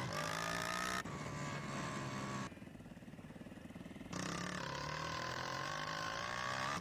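Single-cylinder motorcycle engine running while riding. About two and a half seconds in the throttle eases off and the engine sound drops away for a second and a half, then it picks up again with a slowly rising note.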